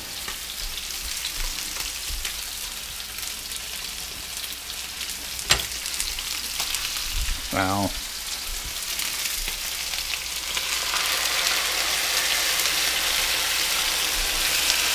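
Chicken and vegetables frying in oil in a stir-fry pan, a steady sizzle that grows louder about ten seconds in, with one sharp knock about five seconds in.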